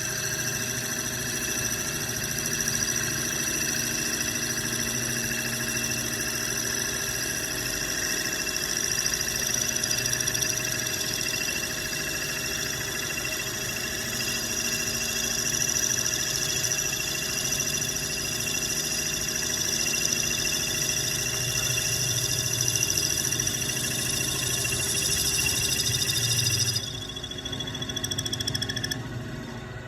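Metal lathe running a facing cut: a steady machine hum with a high-pitched whine from the cutting tool on the workpiece. The sound drops suddenly near the end as the cut stops.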